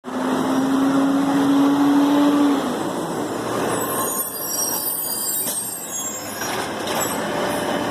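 Garbage truck running close by, with a steady whine over the engine noise that stops about two and a half seconds in. High-pitched squealing follows from about four to six seconds in.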